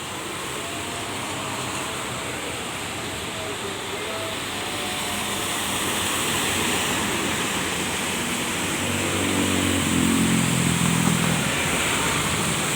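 Road traffic on a wet road in the rain: a steady hiss of rain and tyre spray, with a heavy vehicle's engine growing louder and passing close from about eight to eleven seconds in.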